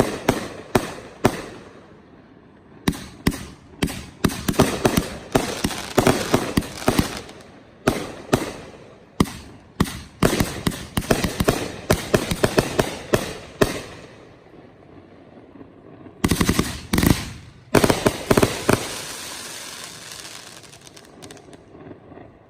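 Fireworks display going off: rapid volleys of sharp shell bursts and crackling reports. They ease off about two-thirds of the way in, then a fresh volley follows, and the crackle fades near the end.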